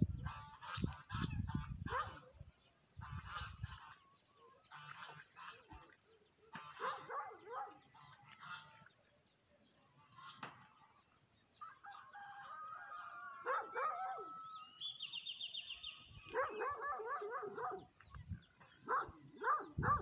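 Farm birds calling in short bouts of repeated calls with pauses between them, and a quick high trill about three quarters of the way through.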